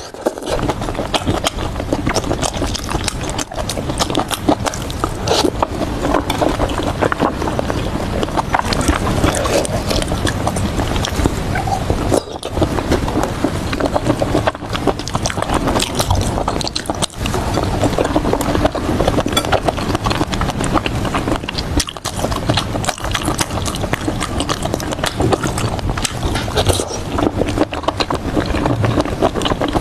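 Close-miked chewing and crunching of food: a continuous run of wet clicks and crackles from the mouth, with brief pauses between bites.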